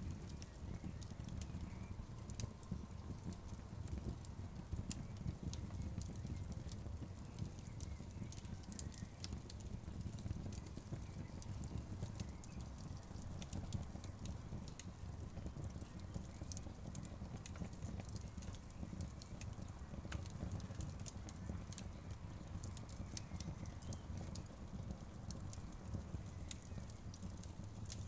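Wood fire of burning logs crackling, with frequent irregular sharp pops and snaps over a steady low rumble.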